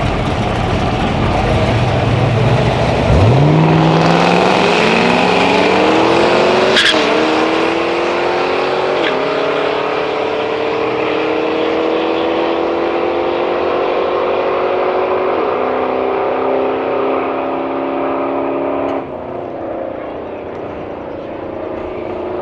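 A car making a full-throttle drag strip run: the engine note climbs from the launch, with a drop in pitch at each gear change about seven, nine and fifteen seconds in. It then falls away near the end as the car lifts off.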